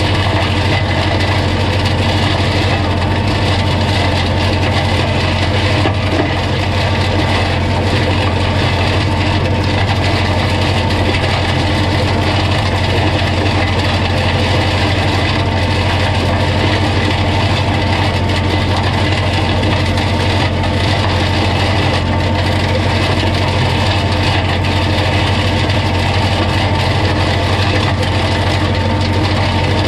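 Diesel engine of a Holder A45 vineyard tractor running at a steady speed while its mulcher chops vine prunings.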